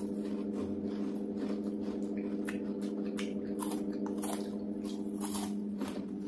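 Biting and chewing chocolate bars: a string of irregular, crisp crunches from two people eating, over a steady low hum.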